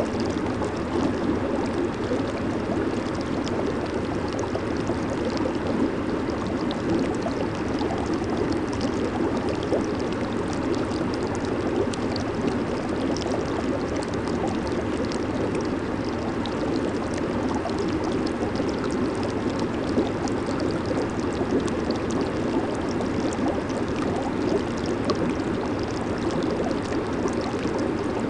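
Jacuzzi jets churning the water: a steady rush of bubbling water, with a fine crackle of bubbles over the top and no change throughout.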